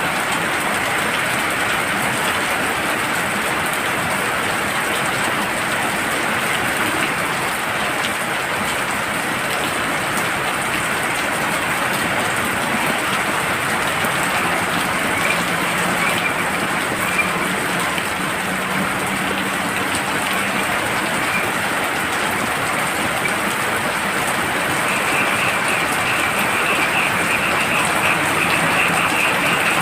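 Heavy rain falling steadily, with frogs calling through it; from about 25 seconds in, a rapid, high trilling frog call rises above the rain.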